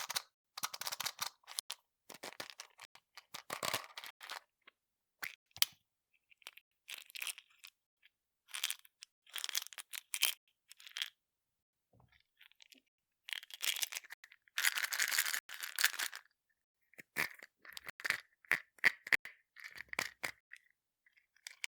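Candy and chocolate wrappers crinkling and tearing in irregular bursts of crackle with short pauses between them, with a longer run of crinkling past the middle.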